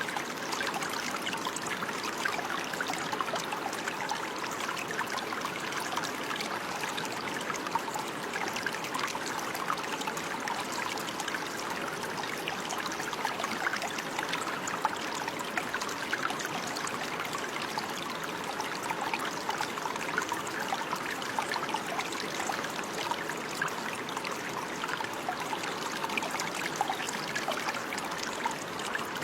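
Running water: a stream flowing and trickling steadily, with a constant babbling rush.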